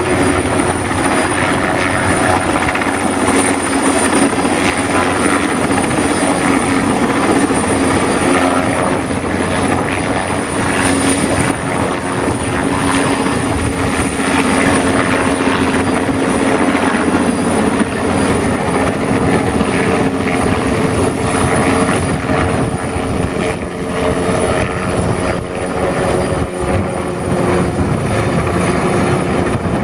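Commercial air-conditioning equipment running steadily, a loud fan whir with a steady hum.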